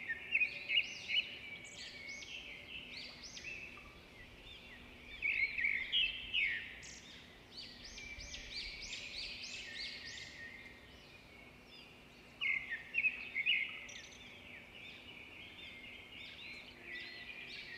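Small birds chirping in quick runs of high notes. The chirping is loudest in three bursts: at the very start, about five seconds in, and about twelve seconds in, with softer chirping in between.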